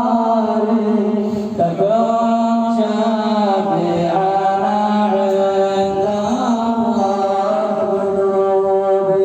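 Male voice chanting an Arabic religious nasheed in praise of the Prophet, with long held notes ornamented by gliding turns.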